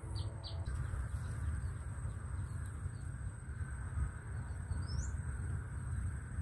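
Small bird calls: two short high chirps just after the start and a quick rising chirp about five seconds in. Behind them are a steady thin high tone and a steady low rumble.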